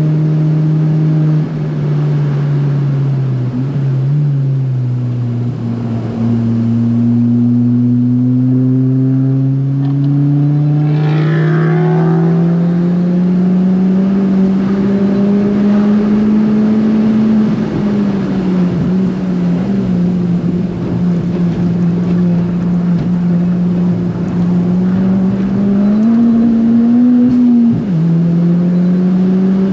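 Tuned, turbocharged Ford Fiesta ST (about 330 hp) engine under hard driving, its note climbing steadily through long pulls. The pitch falls a few times for gear changes or lifts, with a sharp drop near the end.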